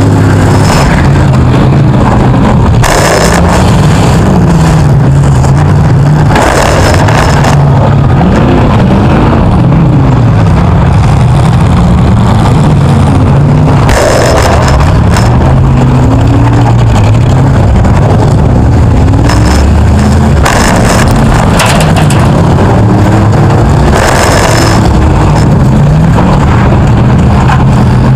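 The heavily loaded engine of a 1975 Chrysler Newport demolition derby car, a V8, revving up and down as it drives. Several short, loud crashing bursts come a few seconds apart.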